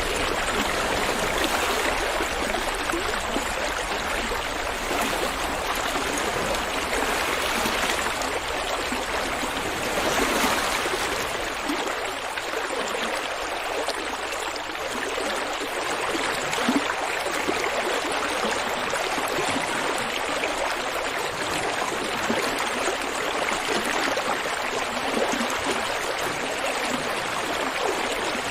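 River water running steadily over rocks, a continuous rushing and gurgling that swells slightly now and then.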